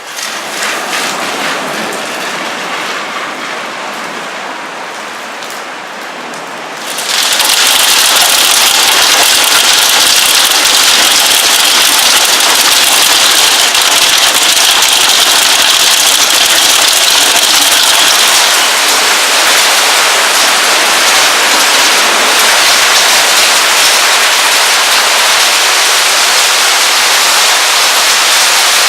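Heavy rain and hail pouring down in a steady hiss of impacts. It becomes much louder suddenly about seven seconds in and stays at that level.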